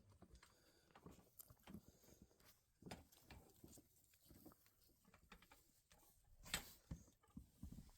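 Near silence with faint scattered taps and clicks, and one sharper knock about six and a half seconds in.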